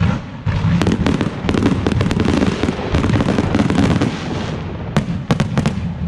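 Aerial fireworks going off: a dense run of rapid bangs and crackles, then a few separate sharp bangs near the end.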